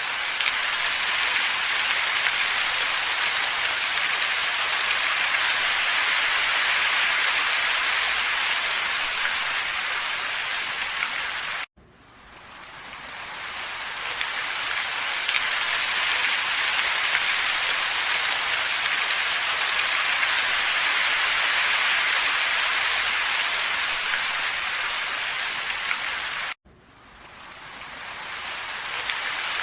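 Steady, even hiss of a wind ambience track. It cuts out abruptly twice, about 12 and 27 seconds in, and fades back up each time, as a looped recording does.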